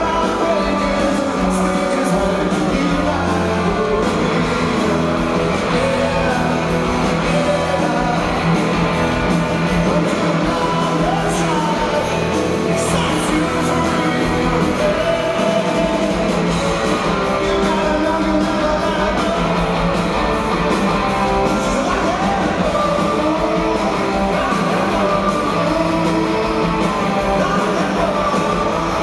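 Rock band playing live at full volume, with electric guitars and drums and singing over them.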